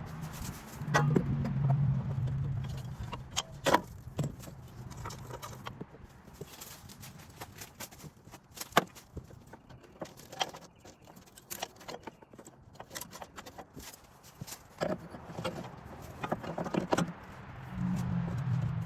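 Scattered metallic clinks and clanks of hand tools and battery terminal hardware being handled on a tractor battery, while a low droning hum rises near the start and again near the end.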